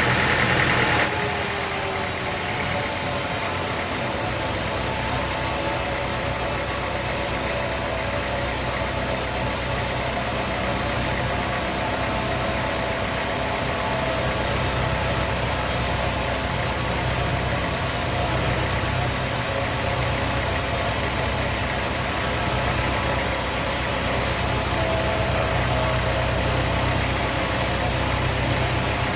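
Sawmill machinery running steadily with an engine-like hum and hiss; a higher whine cuts off about a second in.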